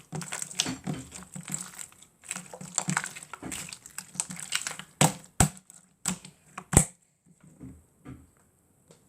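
Slime being squeezed and kneaded by hand, giving a dense run of crackly clicks for about five seconds, then a few sharp snaps as air pockets pop, the loudest near the end of that burst, before it tails off into a few faint clicks.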